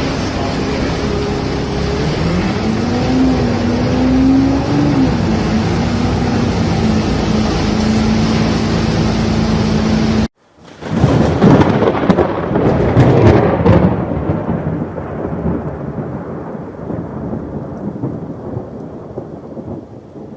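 An engine running with its pitch rising and falling under a steady rush of noise. After an abrupt cut about halfway, a loud rumbling comes in and slowly fades.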